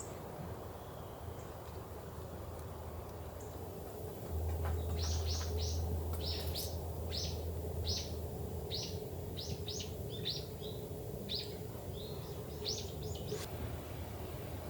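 A bird calling a quick series of short, high chirps, about two a second, starting some four seconds in and stopping about nine seconds later, over a steady hiss of rain.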